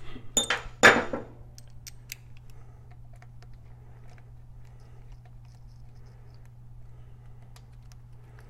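Metal clinks and clatter of hand tools and small screws being handled, loudest in the first second, then a few faint ticks over a steady low hum.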